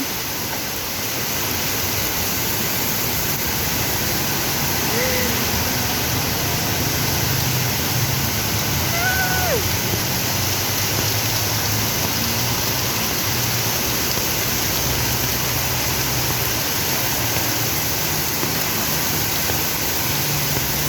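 Heavy rain pouring down, a steady even hiss, with a low hum of vehicle engines underneath.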